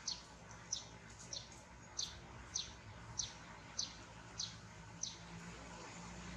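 A bird repeating a short, high-pitched downward chirp, about three every two seconds, nine times before stopping about five seconds in.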